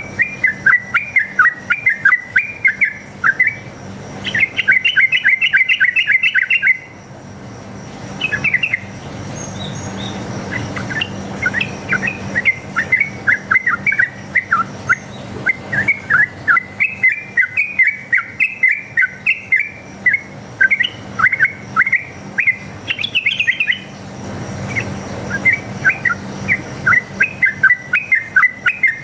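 Yellow-vented bulbul (trucuk) singing long, rapid runs of chirping notes in quick succession: a wild bird's fighting song, used as a lure to make other bulbuls answer. The song breaks off briefly about seven seconds in, then resumes.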